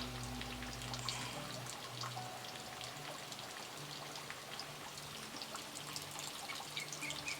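Faint water trickling, with many small scattered drips and splashes on the surface.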